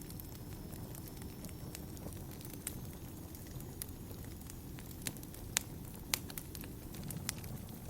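Wood fire burning in a fireplace: a steady low rumble of flames with irregular sharp crackles and pops, a few louder snaps in the second half.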